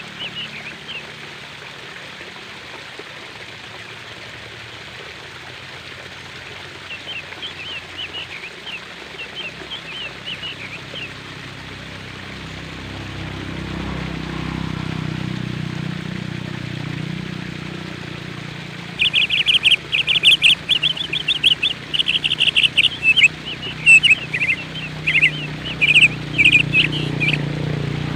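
Small birds chirping in quick runs of short high notes, sparse and faint at first, then loud and busy through the second half. A low rumble in the background rises and falls.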